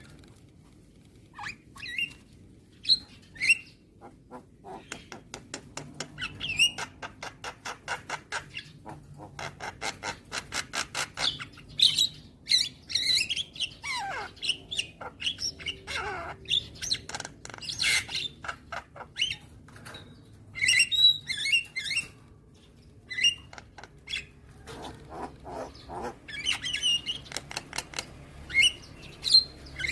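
Javan myna (jalak kebo) singing: fast runs of clicking chatter mixed with harsh squawks and whistled notes, with a couple of falling whistled glides in the middle and short pauses between phrases.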